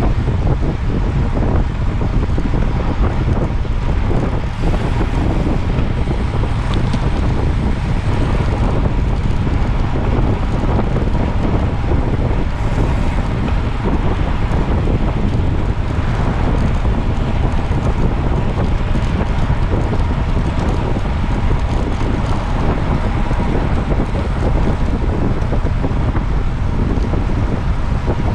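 Steady, loud wind buffeting the microphone of a moving camera, a continuous low rumble with no breaks.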